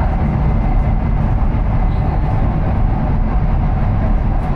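Steady running noise of a high-speed train heard from inside the carriage: an even, deep rumble with a softer hiss above it, unchanging throughout.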